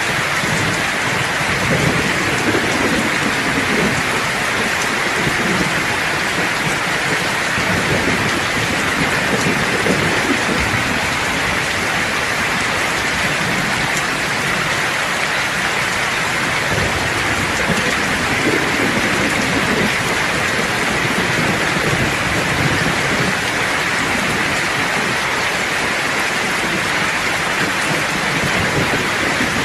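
Steady rain falling in an even hiss, with low rolling thunder rumbling faintly underneath, swelling and fading several times.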